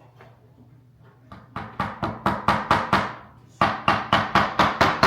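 Hammer tapping small nails into a fireplace mantel: two quick runs of sharp taps, about four or five a second, with a short pause between them.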